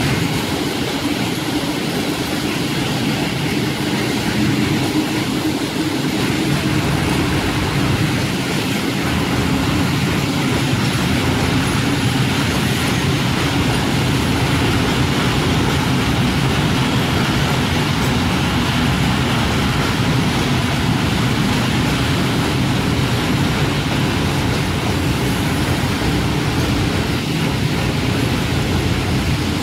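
Freight train of open coal wagons (gondolas) rolling past: a steady rumble of wheels on the rails.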